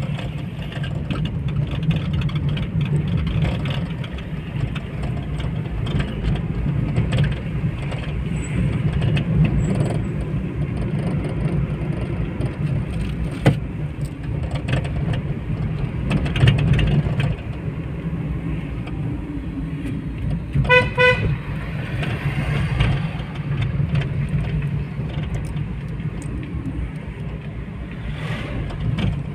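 Steady road-traffic rumble, with a vehicle horn giving two short beeps about two-thirds of the way through.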